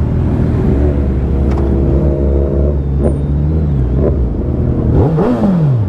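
Motor vehicle engines running at idle with a low steady drone; about five seconds in, one engine revs up and drops back.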